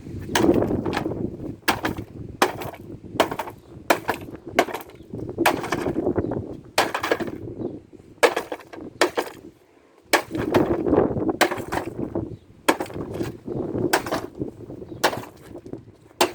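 A hammer striking a plastic kids' ride-on toy car again and again, about one or two blows a second, with the plastic cracking and rattling between blows. There is a short pause partway through.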